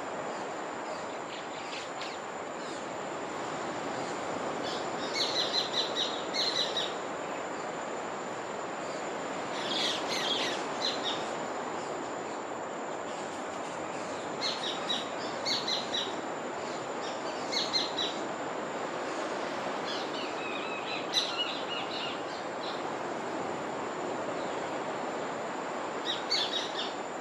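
Birdsong: short, quick runs of high chirping notes repeated every few seconds over a steady rushing background, with a faint steady high tone throughout.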